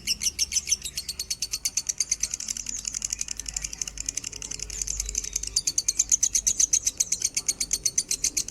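Lovebird singing an unbroken chatter of rapid, high chirps, about ten a second.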